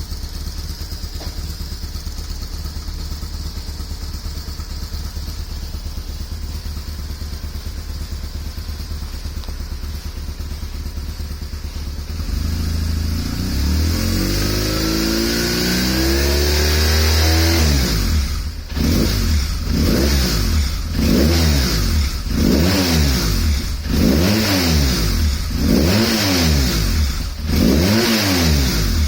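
BMW R1100S's air/oil-cooled boxer twin running through a Staintune aftermarket muffler: a steady, lumpy idle, then the revs rise and hold higher for a few seconds. After that comes a string of about nine quick throttle blips, each revving up and dropping back.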